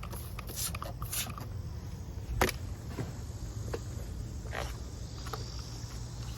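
Scattered rustles and short clicks of plants being handled, over a low wind rumble on the microphone, with one sharper knock about two and a half seconds in.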